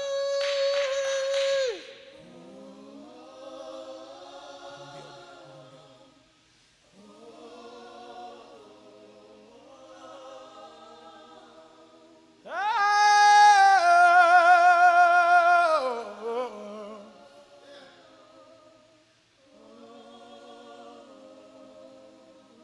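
Unaccompanied worship singing by a congregation. One voice rises over it on two loud held notes with vibrato, at the start and again about halfway through.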